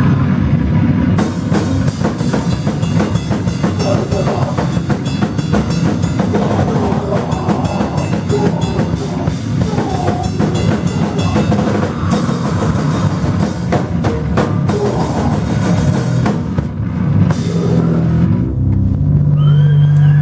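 Live band playing loudly: a drum kit pounds over a dense wash of distorted noise. Near the end the drumming drops away, leaving a steady low drone.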